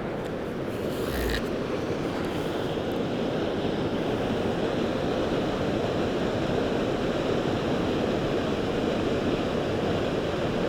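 Steady rushing roar of a large waterfall, North Falls, heard close by. There is a brief knock about a second in.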